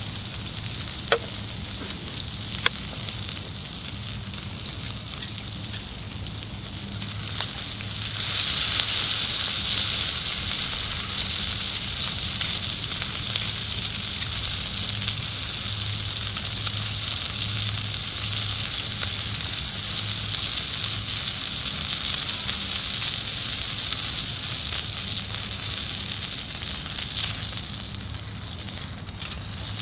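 Chicken thighs sizzling on a thick iron griddle plate over a campfire, a steady frying hiss that grows louder about eight seconds in. Two sharp clicks come in the first few seconds.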